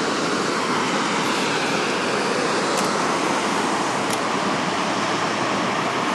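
Steady rush of falling water from Gibbon Falls.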